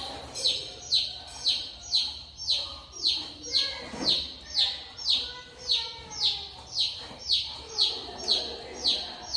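A bird chirping over and over in a steady rhythm, about two short high chirps a second, each falling in pitch.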